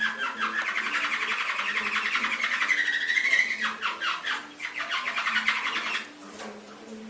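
Domestic canary singing a long, continuous song of fast trills and rolls, with a gliding note near the middle; the song breaks off about six seconds in.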